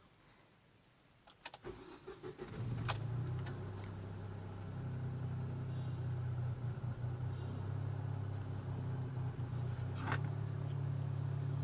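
Mahindra XUV300's engine starting about two seconds in, after a few faint clicks, then settling into a steady idle.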